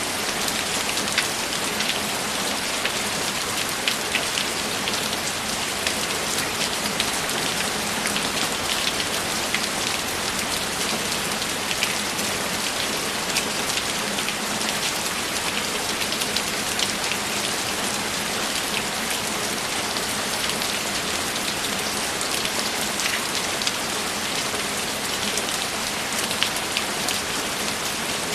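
Steady rain falling: an even, dense hiss with many individual raindrops ticking through it, holding constant with no thunder.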